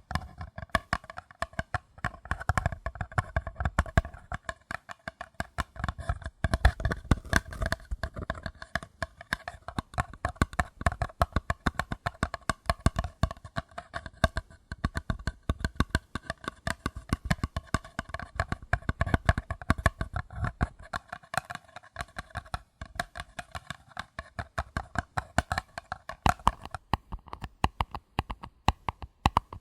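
Paper cups tapped gently and rapidly, many light taps a second, each with a short hollow ring. About 26 seconds in, the ring loses its lower note and the taps sound thinner.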